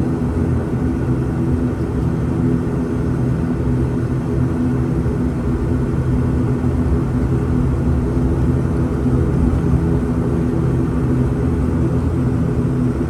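Steady drone of an ATR 72-600's twin Pratt & Whitney PW127M turboprop engines and propellers heard from inside the cabin: a low hum of several held tones over a rushing noise, with no change in pitch.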